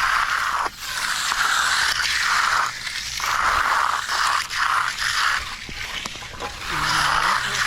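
Repeated gritty scraping and crunching strokes of a hand tool working through concrete, each stroke about half a second to a second long with short breaks between.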